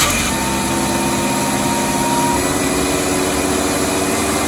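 1986 Chevy S10 Blazer's 2.5-litre Iron Duke four-cylinder running at a high idle, its pitch shifting up a little about halfway through. This is a runaway idle: the engine speed climbs and does not come back down, which the owner is tracing through the vacuum lines, IAC, TPS and MAP sensor.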